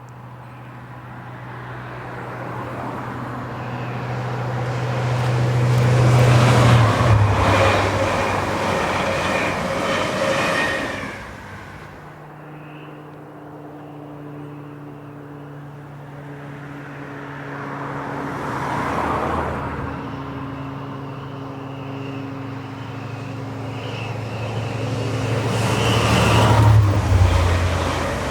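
A mainline diesel locomotive hauling a passenger train goes by, its engine note swelling and then dropping in pitch as it passes. A second train pass follows near the end, with the same falling engine note.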